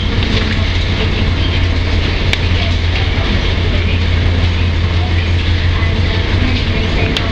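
A steady low engine drone under a constant rushing noise.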